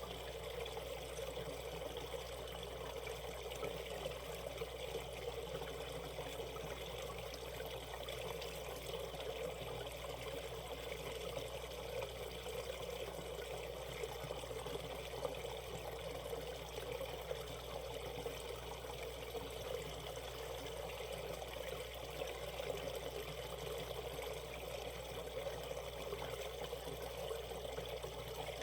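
Water of a shallow valley stream running steadily over rocks, an even rushing with trickling.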